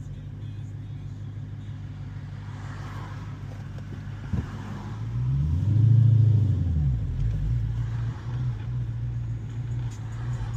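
2015 Dodge Challenger Hellcat's supercharged 6.2-litre V8 running at a steady low rumble. A short knock comes about four seconds in, then the revs climb to a loud peak, drop back, and rise again near the end.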